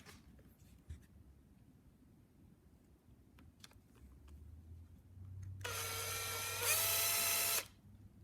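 A few light clicks of parts being handled, then a small electric power tool motor whirs for about two seconds, stepping up in pitch partway through, and stops abruptly.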